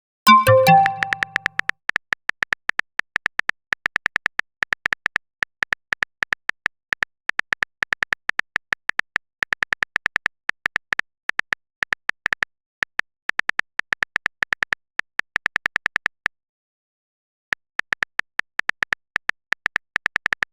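Phone-keyboard typing sound effect: rapid, uneven clicks, each with a short high beep, stopping for about a second near the end. A short chat-notification chime at the very start.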